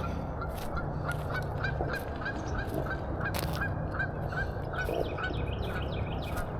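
A bird calling in a fast series of short, repeated notes, about four a second, over a steady outdoor background.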